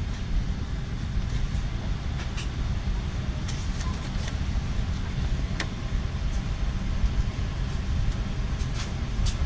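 Steady low rumble inside an airliner cabin, from the running engines and the aircraft rolling on the ground, with a few faint clicks and rattles; the sharpest click comes about halfway through.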